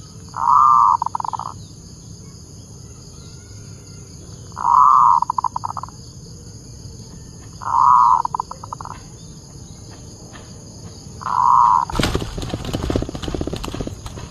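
Zebra dove (perkutut) cooing: four calls about three seconds apart, each a held coo that breaks into a quick stuttering run of notes. A faint steady high-pitched buzz runs underneath, and shortly before the end a sudden loud rattling noise takes over.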